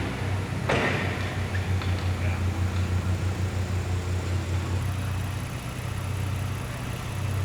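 Car engine idling close by, a steady low pulsing hum, with a short burst of noise about a second in.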